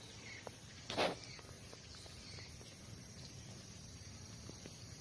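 Outdoor nature ambience: a steady low background hiss with a few faint, short high chirps and small clicks, and one brief noisy rustle about a second in.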